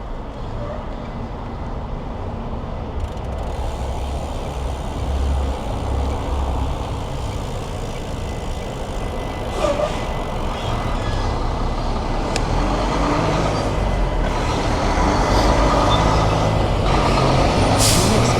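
Road traffic rumbling past a moving bicycle. A motor vehicle's engine grows louder toward the end.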